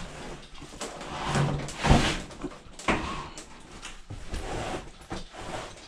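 A series of knocks and clunks from a front-load washing machine being handled, with rustling between them and the loudest knock about two seconds in.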